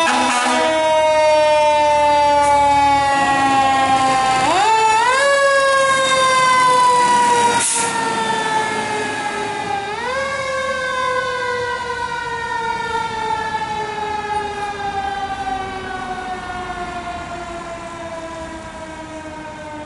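Pierce Enforcer fire engine's siren sounding on a response, its pitch winding up quickly and then sliding slowly down, three times over, growing fainter toward the end.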